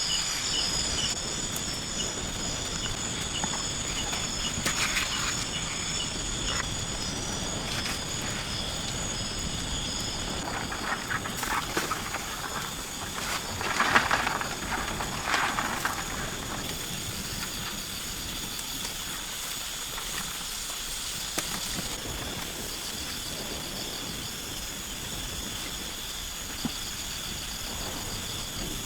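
Rainforest insects keeping up a steady, high pulsing chorus, with a few short rustling noises around the middle, the loudest about halfway through.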